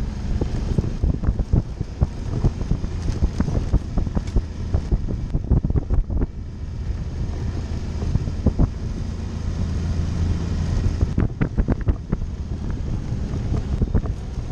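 Suzuki V-Strom motorcycle's V-twin engine running steadily at low speed on a dirt trail, with frequent sharp knocks and clatters from the rough ground. Wind noise on the microphone throughout.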